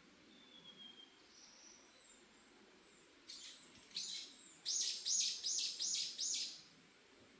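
Forest birdsong: a few faint, thin whistled calls, then a bird singing loudly from about three seconds in, ending in a quick series of about five repeated ringing notes, each rising and falling, that stops about a second before the end.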